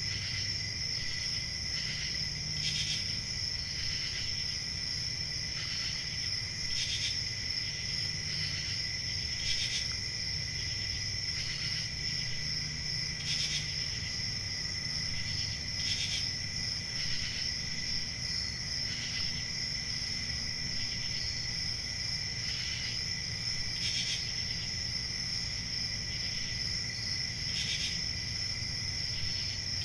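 Crickets chirping: a steady high-pitched trill, with louder chirps breaking in every second or few over a low background rumble.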